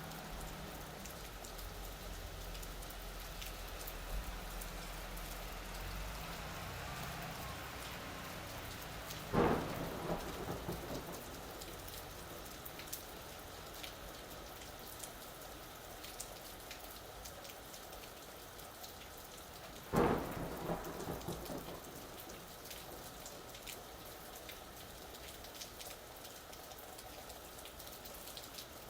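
Steady rain falling, with a low thunder rumble in the first few seconds. Two sharp claps of thunder come about nine and twenty seconds in, each trailing off in a short crackling rumble.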